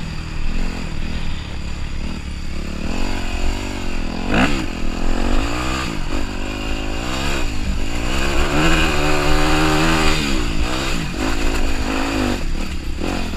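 Dirt bike engine revving up and down as it is ridden at a hill and jumped, its pitch falling and rising several times and climbing highest near the end. There is a sharp knock about four seconds in.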